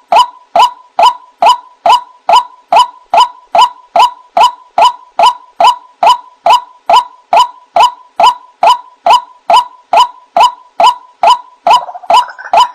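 White-breasted waterhen (ruak-ruak) giving its call over and over in a steady rhythm, a short clucking note a little more than twice a second. Near the end a denser, busier run of calls joins in.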